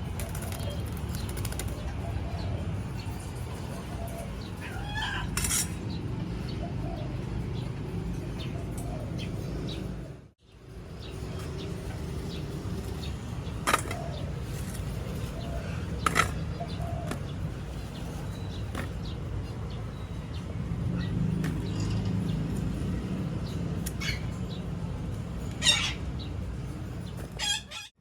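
Parrots with a steady low rumble underneath, giving a few brief, sharp squawks spaced several seconds apart.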